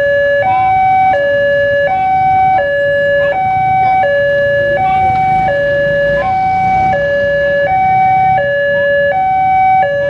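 Railway level-crossing warning alarm: an electronic two-tone signal alternating steadily between a higher and a lower pitch, each held about three-quarters of a second, the warning that a train is approaching and the barrier is closing.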